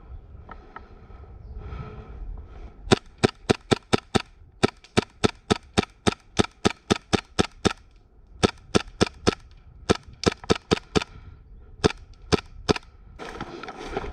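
Airsoft gun firing rapid single shots, about four a second, in several strings with short pauses between them. Each shot is a sharp crack.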